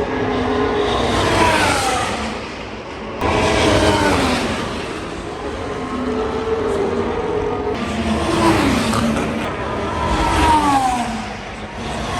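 Formula 1 cars, with turbocharged hybrid V6 engines, passing one after another at speed. Each high engine note falls in pitch as the car goes by, about five or six passes in all, the loudest coming in suddenly about three seconds in.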